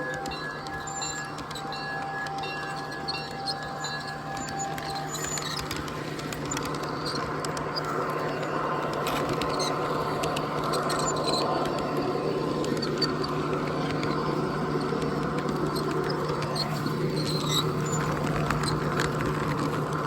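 Train rolling past after its horn: a steady low hum and running noise, with scattered high squeaks and small clicks from the wheels on the rails.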